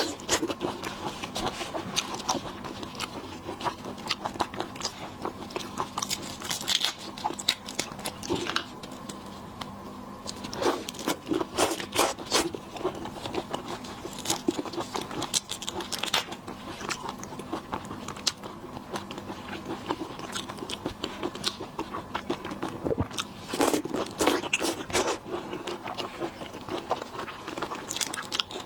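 Close eating sounds of shrimp and crab: irregular crunchy bites and chewing, with sharp crackles scattered throughout. A faint steady hum runs underneath.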